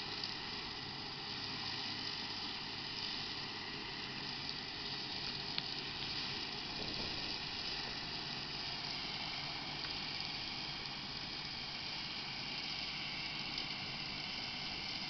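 Massey Ferguson 6480 tractor's six-cylinder diesel running steadily under load with a Spearhead rotary topper mowing, a continuous even rush of engine and cutter. A single brief tick about five and a half seconds in.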